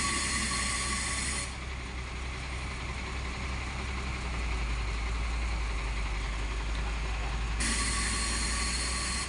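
Heavy truck engine running steadily, with two bursts of loud hissing that carry a faint whistle-like tone, one at the start and one near the end.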